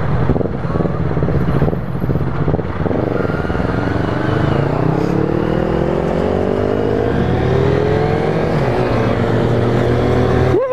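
Motorcycle engine running under way, its pitch dipping about three seconds in and then rising steadily as the bike accelerates.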